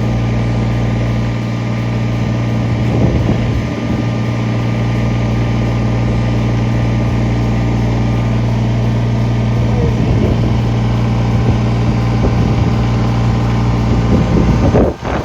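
Kubota BX23S compact tractor's three-cylinder diesel engine running steadily, with a few short knocks over it.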